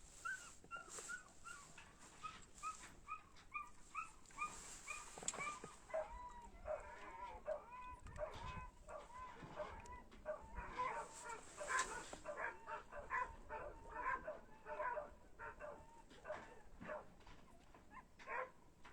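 Animal calls, most like a dog whining: a run of short, high, repeated notes about three a second, then longer notes that rise and fall, then quicker short ones.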